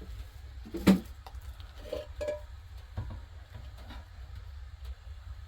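Dishes and utensils being handled: one sharp knock about a second in, then a few lighter clinks and taps, over a steady low rumble.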